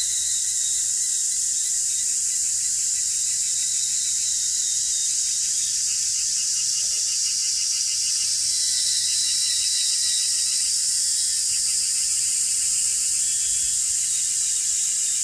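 A steady, high-pitched chorus of insects, with a faster pulsing trill running through it lower down.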